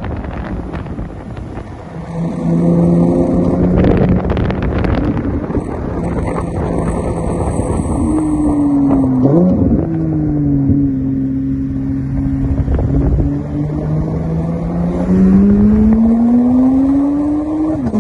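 Porsche 911 GT3 (991.2) naturally aspirated 4.0-litre flat-six through a JCR aftermarket exhaust, driving along. The engine note holds steady, breaks at a gear change about halfway, then rises steadily and drops sharply at an upshift near the end, over wind and road noise.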